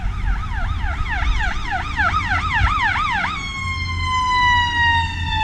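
Emergency vehicle siren in a fast rising-and-falling yelp that grows louder. A little over three seconds in it switches to a steady wail whose pitch slowly falls. A low rumble of traffic or wind runs underneath.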